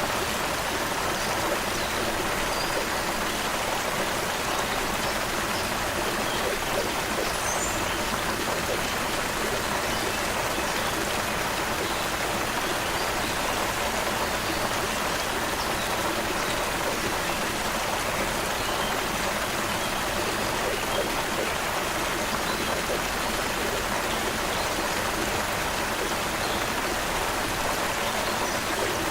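A stream flowing with a steady rushing babble, with a few faint high bird chirps in the first several seconds.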